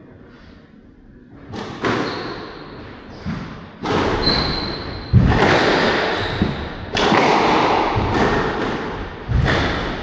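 Squash rally: the ball is struck by rackets and cracks off the court walls, sharp hits with echo roughly every second after a quiet first second and a half. A brief high squeak, typical of court shoes, comes about four seconds in.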